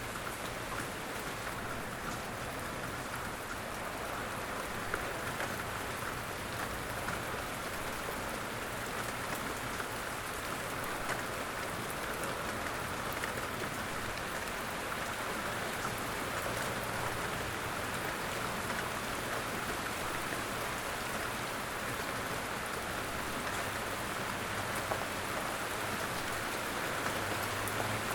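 Light rain falling steadily: an even hiss of rainfall with scattered individual drops ticking.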